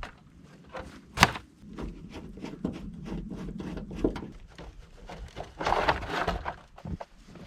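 Scattered knocks and clicks of things being handled, with one sharp knock about a second in and a rustling scrape around six seconds.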